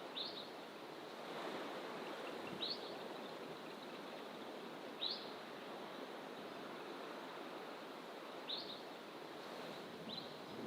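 A bird giving a short, high call five times, about every two to three seconds, over a steady rushing background of distant ocean surf.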